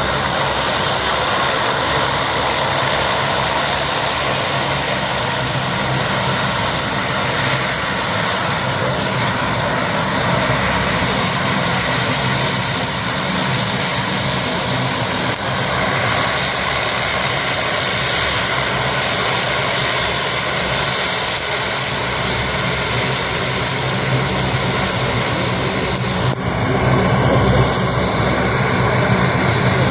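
Military transport airplane's engines running loudly and steadily: a constant low hum under a wide rush of noise. The sound changes abruptly a little over 26 seconds in.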